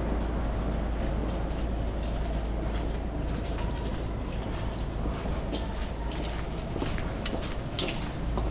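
Busy city street ambience: a steady low rumble with a haze of distant noise, and short sharp clicks growing more frequent in the second half.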